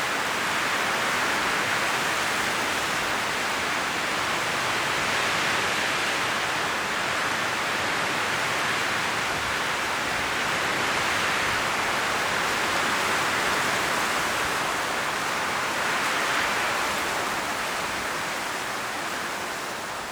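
Strong wind blowing through autumn forest trees, rustling the leaves in a dense, steady rush that swells in gusts and eases a little near the end.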